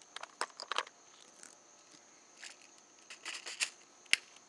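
Irregular clicks and rustling of handling noise, with one sharp click near the end, over steady chirring crickets.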